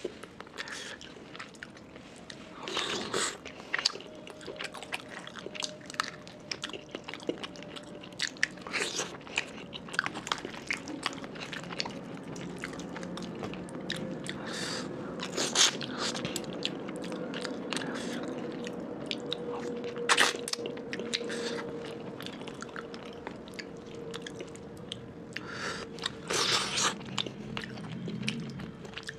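Close-miked chewing and wet mouth smacks of a person eating fish curry with rice by hand, with many short clicks and a few louder smacks, over a faint steady hum.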